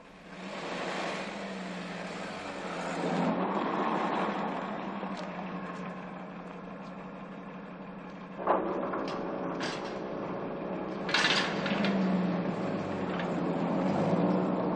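A car engine running as the car pulls in and idles. There is a sudden sharp knock about eight and a half seconds in, and another sharp noise about three seconds later.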